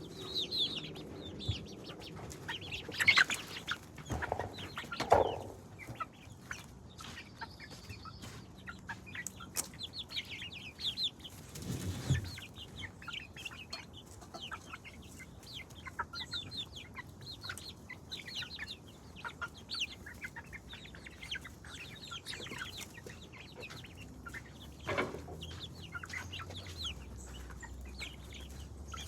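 Chickens clucking and calling, with many short high calls throughout and a few louder calls in the first few seconds.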